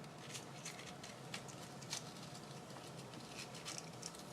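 Faint, scattered light taps and rustles of hands pressing and handling small paper craft pieces on a work surface, about one or two soft clicks a second.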